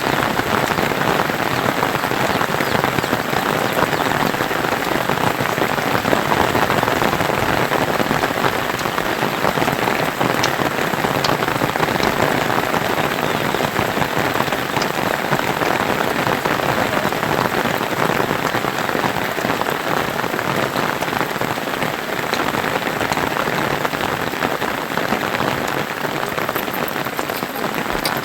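Steady rain falling, a dense even patter of drops with individual drips ticking through it.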